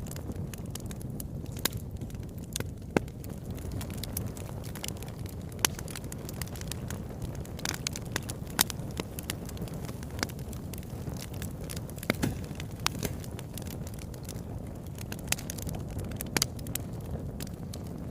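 Wood fire burning in a fireplace: a steady low rush of flames with sharp, irregular crackles and pops, several louder snaps standing out.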